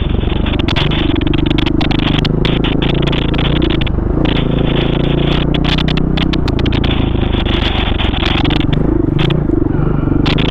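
Off-road dirt bike engine running under load while riding a trail, its revs shifting up and down with the throttle and gear changes, with frequent short knocks and clatter from the ride over rough ground.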